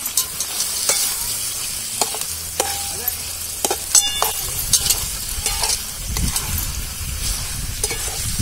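Raw chicken pieces sizzling in hot oil and masala in a metal kadhai while a spatula stirs them, scraping and knocking against the pan again and again.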